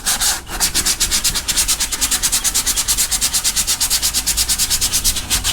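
Sandpaper folded under the fingers being rubbed by hand over hardened body filler on a fiberglass bumper lip, in quick, even back-and-forth strokes. It is shaping and smoothing the filler. The strokes pause briefly about half a second in, then run on faster and closer together.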